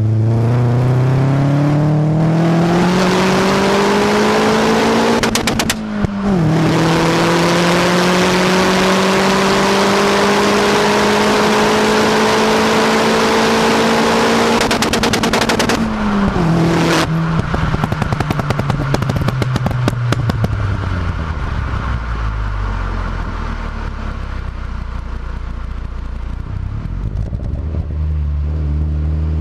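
Vauxhall Astra GSI's turbocharged Z20LET four-cylinder engine through a Milltek decat exhaust, pulling hard with revs climbing, a brief crackle at a gear change about six seconds in, then a second long pull. On lifting off about halfway through, the exhaust fires a long volley of rapid pops and bangs from the pop-and-bang map as the revs fall, before the engine settles low and revs rise again near the end.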